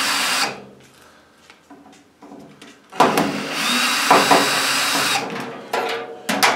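Handheld power drill running into the stainless steel extractor hood in two bursts: it stops about half a second in and starts again about three seconds in for about two seconds, with a steady high whine. A few sharp knocks and clatter follow near the end.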